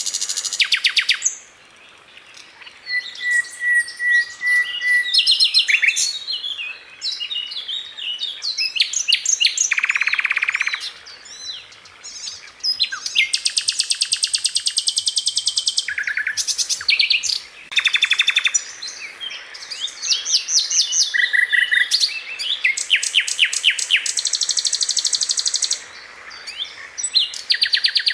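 Sikatan londo flycatcher singing: bursts of fast, tightly packed high-pitched trills and rattles with sharp repeated notes, broken by short pauses of a second or two.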